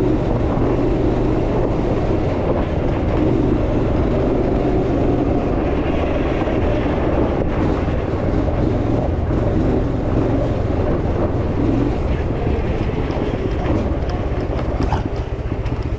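Off-road buggy engine running under load on a rough dirt track, with the frame rattling steadily.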